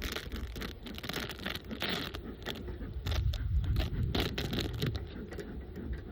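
Irregular scraping, cracking and clicking of a metal hive tool and wooden frames being worked loose in an open beehive, over a low rumble of wind and handling on the microphone.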